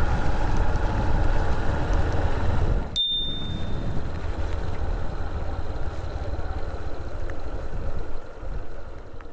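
Motorcycle running on the road, a steady low rumble. About three seconds in there is a short high ding, and the riding sound fades near the end.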